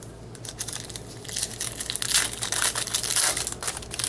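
Foil wrapper of a 2013 Bowman Baseball card pack being torn open and crinkled in the hands, a dense crackle that builds about a second in and is loudest in the second half.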